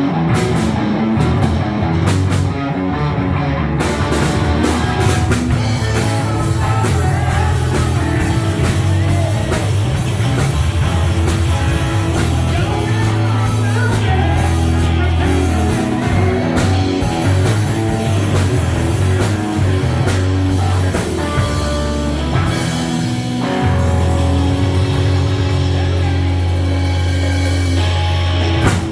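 Rock band playing: distorted electric guitar, bass and drum kit, with singing, stopping right at the end.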